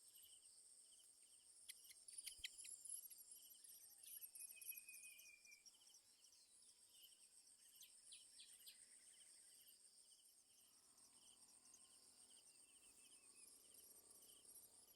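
Faint insect chorus: a steady high-pitched buzz with evenly repeated chirps, and a few sharp clicks about two seconds in.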